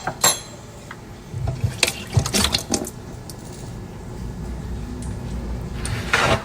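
Kitchen handling noises: two sharp clicks at the start, a cluster of knocks and clatter with a low rumble about two seconds in, and a short rushing, hiss-like noise near the end.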